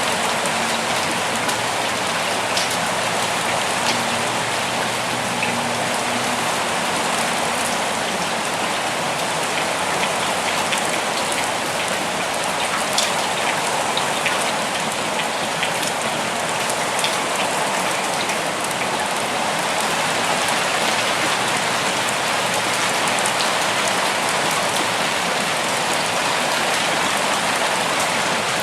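Steady rain falling, an even hiss of rainfall with scattered sharper ticks of individual drops.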